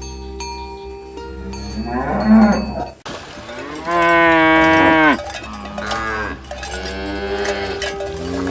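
Cattle mooing: a short call about two seconds in, then a run of long, drawn-out moos one after another, the loudest about four to five seconds in.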